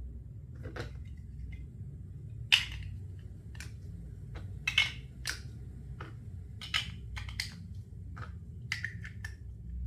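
Plastic Duplo bricks being handled and pressed together: a dozen or so sharp clicks and taps at irregular intervals.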